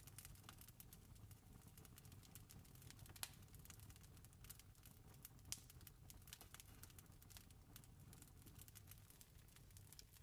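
Campfire crackling quietly: a dense run of small irregular crackles, with two louder pops a little after three seconds and about five and a half seconds in, over a low steady rumble.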